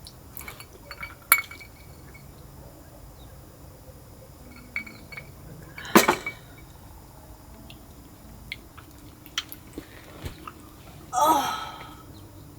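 Light clinks and knocks, like dishes or utensils being handled, with one sharp clink about six seconds in and a short, louder burst of noise with a falling pitch near the end.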